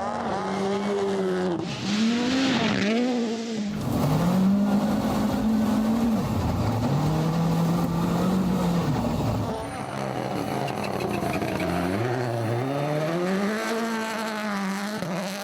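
Rally car engines at full effort in several cut-together clips, the engine note climbing and dropping again and again as the cars rev up, lift and change gear, with tyre noise on the loose stage surface.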